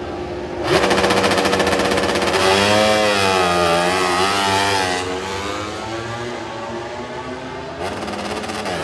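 MotoGP race bikes' engines revving hard for a practice start, jumping to a loud, high-pitched howl about a second in with the pitch wavering up and down as the throttle is held, easing off after about five seconds, then rising sharply again near the end.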